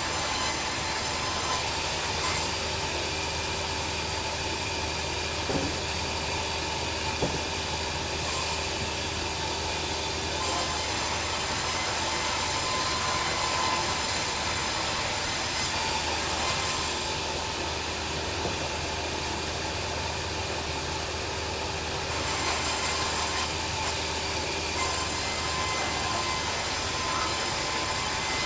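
Bandsaw sawmill running steadily, its blade sawing through a log: a continuous mechanical hum with a high hiss that fades and returns several times.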